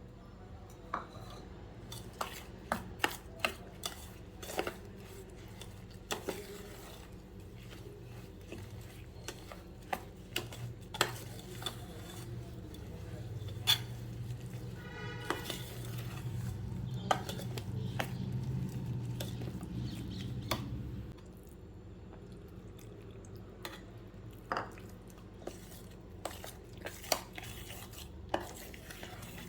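Cooking clatter: a spoon stirring and clinking against metal pots and pans, with many scattered sharp knocks. A low hum builds underneath for several seconds and cuts off suddenly about two-thirds of the way through.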